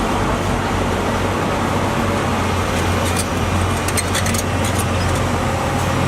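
Diesel engine of a heavy earthmoving machine running steadily under work, a low continuous drone. A brief run of light clicks comes about three to four seconds in.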